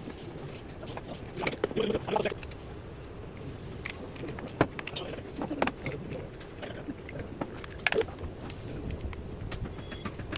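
Scattered light clicks and clinks of tools and metal parts being handled, with a sharper knock about halfway through and another near the end.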